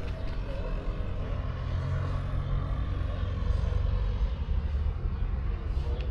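Low, steady rumble of a running vehicle, with a sharp click at the start and another near the end.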